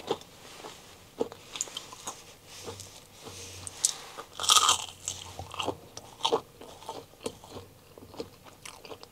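Biting into and chewing a crispy McDonald's Chicken McNugget up close: a run of small crunches and mouth clicks, with one louder crunchy bite about four and a half seconds in.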